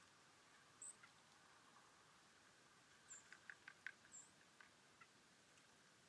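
Faint, high, short chirps of small birds: three scattered calls, with a quick run of soft ticks about three to four seconds in, over a faint steady hiss.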